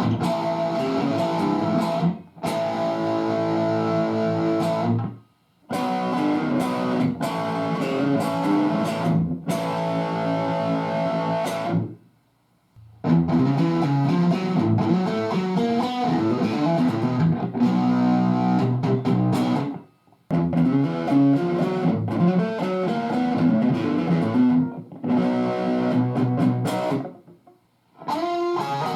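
Electric guitar played through a Marshall DSL5-series 5-watt valve combo amp at full gain: heavily distorted riffs and held chords. The phrases last a few seconds each, and each is cut off abruptly with a brief silence before the next.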